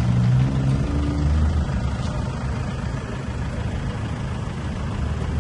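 Toyota Hilux pickup's engine running steadily through a new stainless-steel custom exhaust, a low even exhaust note that eases slightly in the middle and firms up again near the end.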